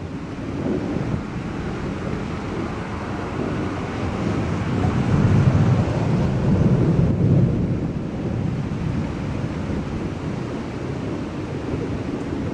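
Long roll of thunder from a thunderstorm, a deep rumble that swells to its loudest about halfway through and then slowly eases.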